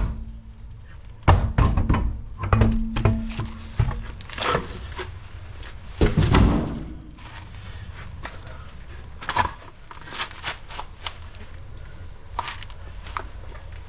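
Irregular knocks, clicks and clanks of tools and metal parts being handled during car suspension work, with a heavier thunk about six seconds in.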